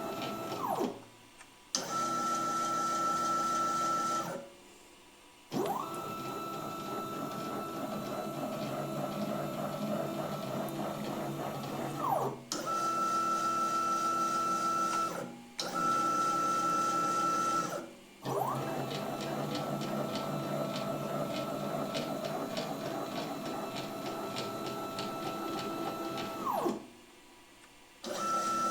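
A CNC lathe running a program: its motors whine at steady pitches in alternating segments, some with a clear high whine and some noisier, and each segment starts and stops with a quick glide up or down in pitch. The machine falls quiet for about a second near the start, again around five seconds in, and near the end.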